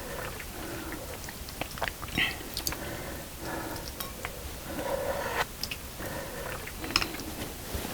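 Close-miked chewing and eating mouth sounds, with scattered wet smacks and short clicks.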